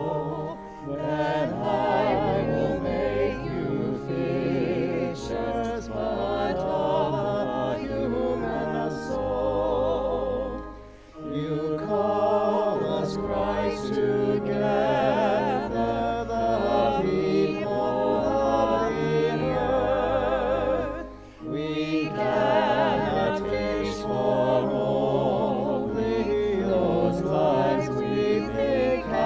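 A hymn sung by voices with vibrato over steady low accompanying notes. The singing breaks off briefly twice, about a third and two-thirds of the way through, between phrases.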